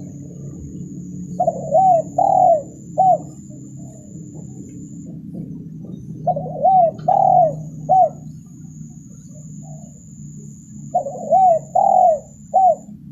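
Spotted dove cooing in three phrases about five seconds apart, each a run of about four short, arched coo notes; a recorded lure call of the kind played to attract wild doves.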